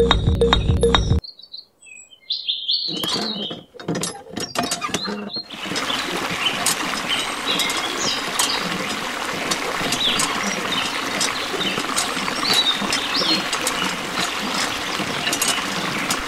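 Water from a miniature hand pump's spout pouring steadily into a small shallow trough, setting in about five seconds in. The pump's handle mechanism clicks as it is worked, and birds chirp throughout.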